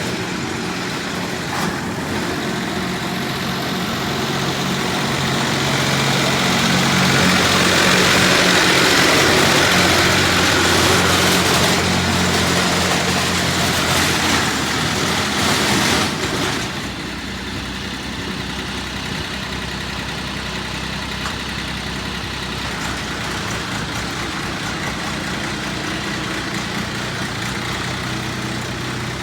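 Mini crawler dumper's engine running steadily. For about ten seconds in the middle it runs louder, with a rush of noise on top, then drops back abruptly to a quieter, steady idle.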